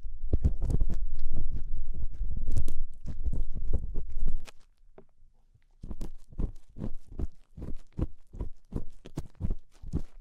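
Ear-cleaning strokes close on a microphone's ear: dense, close scraping and rubbing, a short pause about four and a half seconds in, then quick, even strokes about three a second.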